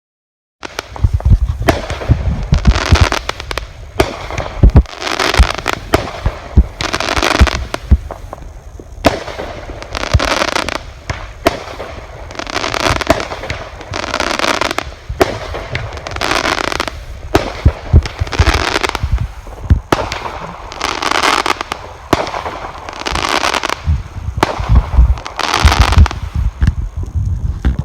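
Fireworks going off: dense crackling and popping with low rumbling, surging in hissing bursts about once a second.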